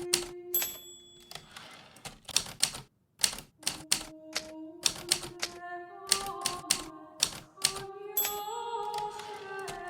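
Hermes Baby portable typewriter typing: keys striking in quick, irregular runs, pausing briefly about three seconds in. A soft background melody of held notes plays under the keystrokes.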